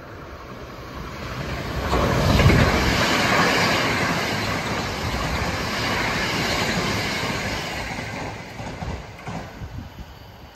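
Hankyu electric train passing by on the line near Ashiyagawa: the running noise of its wheels on the rails builds over about two seconds, stays loud for several seconds, then fades away.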